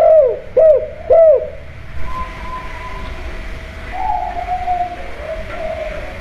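Spotted dove cooing: the last three loud, arching coos of a phrase in the first second and a half, then only faint, softer notes over a faint steady tone for the rest of the time.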